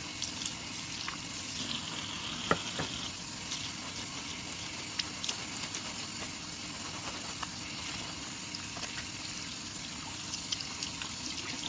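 Water running steadily from a tap into a sink, with scattered small wet clicks from soapy foam being handled and one sharper click about two and a half seconds in.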